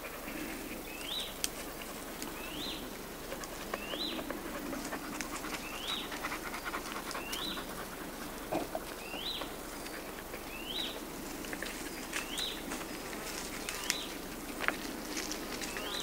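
A bird calling over and over, a short rising note repeated about every second and a half, with scattered sharp clicks.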